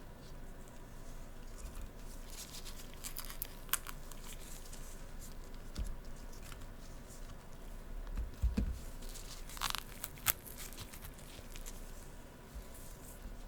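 Scattered, close-miked crinkling and crackling sounds made of short, sharp clicks, with a few louder crackles and a soft low thump in the middle.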